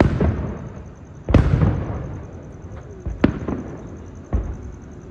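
Aerial fireworks going off: four loud booms about one to two seconds apart with a smaller crack between them, each one trailing away in echo.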